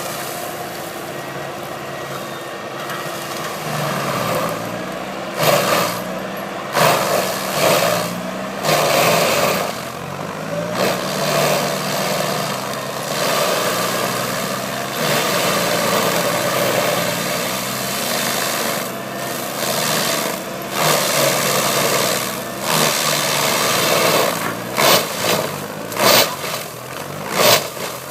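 Lamborghini tractor's diesel engine running steadily, with repeated brief louder swells of noise over its hum.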